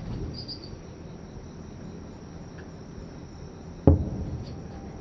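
A distant aerial firework shell bursting with one sharp boom about four seconds in, its low rumble rolling away over the following second. Crickets chirp faintly in the background.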